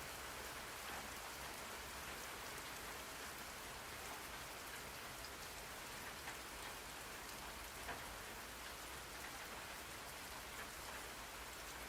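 Steady rain falling on a surface, an even hiss with many small drop patters and a slightly louder drop about eight seconds in.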